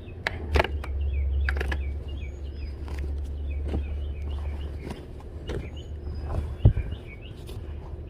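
Small birds chirping over and over, with scattered clicks and knocks from items being handled and a low steady rumble. One louder thump comes near the end.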